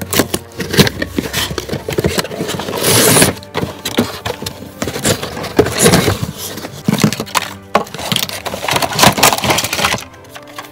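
Cardboard toy box and its packaging being opened and handled: irregular scraping, rustling and clicks, with a longer, louder rush of scraping about three seconds in.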